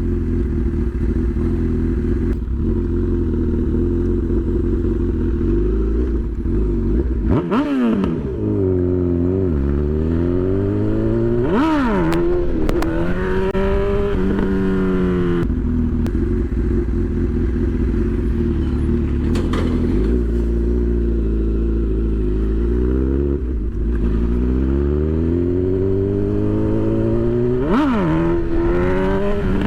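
Honda CB1000's inline-four engine pulling the motorcycle along under way, its note climbing as it accelerates and dropping sharply at gear changes about a third of the way in, around twelve seconds in and near the end, with a steadier cruising note in between.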